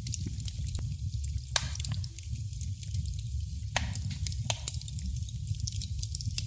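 Fire crackling in a traditional fireplace: scattered sharp pops and snaps over a steady low rumble, with two louder crackles about one and a half and four seconds in.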